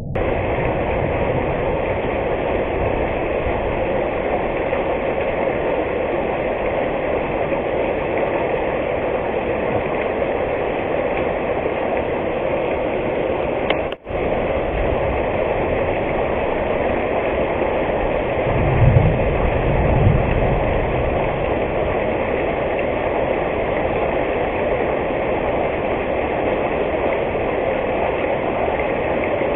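Rain falling, a steady hiss, with a momentary break about halfway through and two low thumps about two-thirds of the way in.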